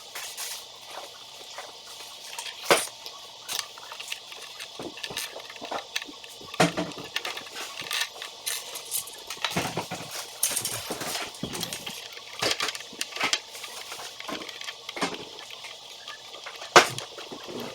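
Small toy building pieces being handled and fitted together: irregular clicks and clatters, a few sharp loud snaps among them, over a steady hiss.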